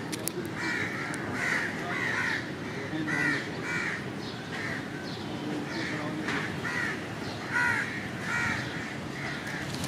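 A flock of crows cawing, many harsh calls overlapping one after another, one to two a second.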